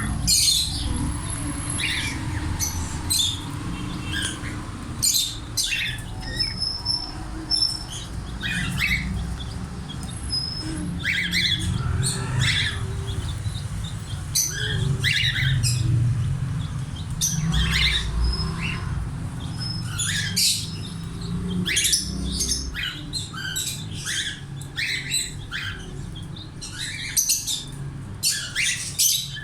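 Parrots calling, with many short sharp chirps and squawks following each other irregularly, over a steady low rumble.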